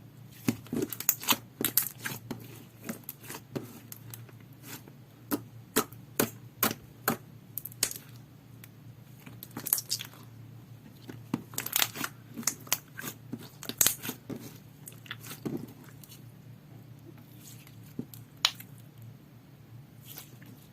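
Slime being squeezed, pressed and stretched by hand, giving irregular sticky pops and crackles in clusters that thin out near the end.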